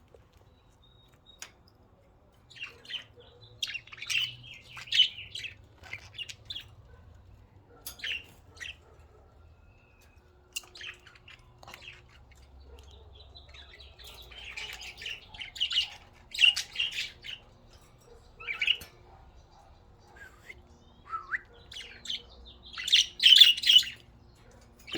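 Pet budgerigars chirping and chattering in short bursts of high chirps and squawks, in three spells, the loudest near the end.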